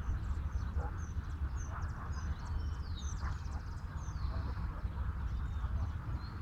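Many birds chirping: a continuous scatter of short, high calls and quick falling notes, over a steady low rumble.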